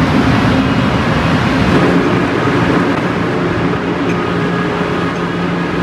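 Steady hum and rushing noise from a Haramain high-speed train standing at the platform, with a few faint constant tones running through it.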